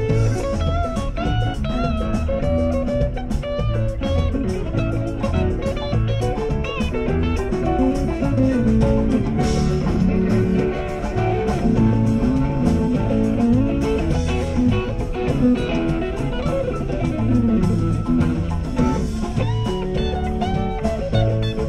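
Live rock band playing an instrumental break: an electric guitar lead with bent notes over bass and drums.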